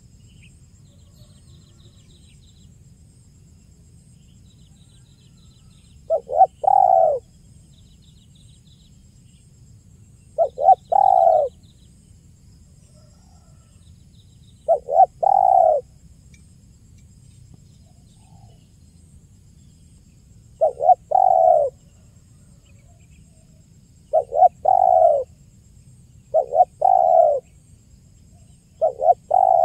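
Spotted dove (tekukur) cooing: seven calls, each two short notes followed by a longer coo, repeated every few seconds from about six seconds in. Faint high chirps of small birds come in the first half, over a low steady hum.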